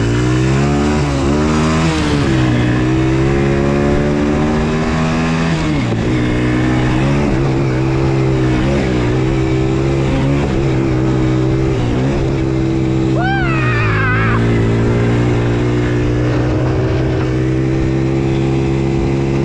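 Small off-road engine of an ATV or dirt bike running close by at a fairly steady pitch. Its speed dips and climbs back a couple of times as the throttle changes. A brief high-pitched yell comes about 13 seconds in.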